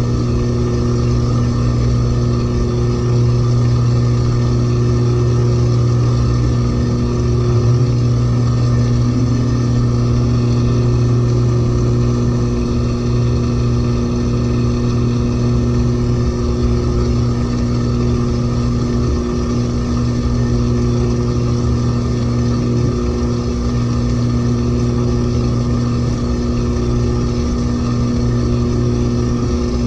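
LG 18 kg washing machine in its final spin with an overloaded drum, turning at a steady high speed with a steady low hum.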